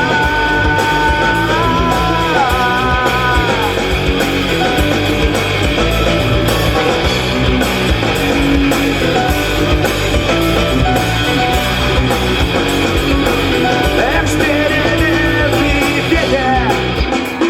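Live rock band playing an instrumental passage: electric guitar over bass guitar and drums, with a held note that bends down in the first few seconds.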